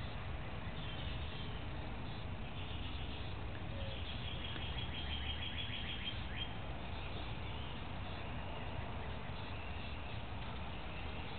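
Outdoor ambience: a steady low rumble with faint bird chirps, and a quick trill of about eight notes a second from roughly four and a half to six and a half seconds in.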